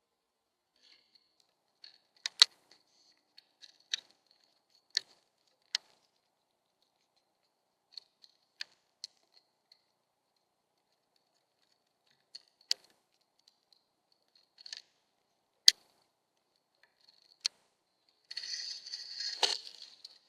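Irregular sharp taps and clicks on a plastic bird feeder, such as a bird pecking at seed and shifting on the perch, heard close to the feeder's own microphone. Near the end comes a second and a half of busy scratching and rustling.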